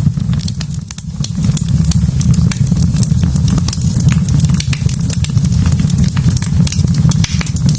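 Wood fire burning in a fireplace: frequent sharp crackles and pops from the logs over a steady low rumble of the flames.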